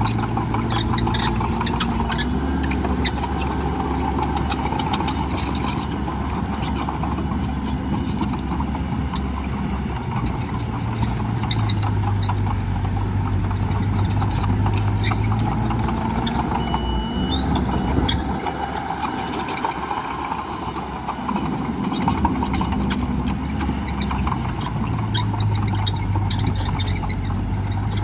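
Diesel engine of heavy earthmoving equipment running steadily, its note rising and falling a few times as it is revved and eased off, with scattered clanks and rattles over it.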